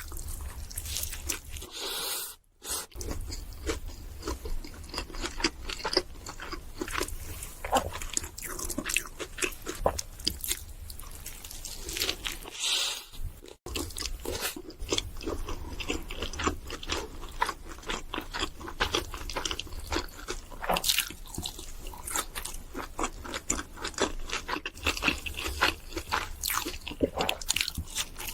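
Close-miked chewing and crunching of food, a dense run of irregular wet clicks and crackles from mouth and teeth.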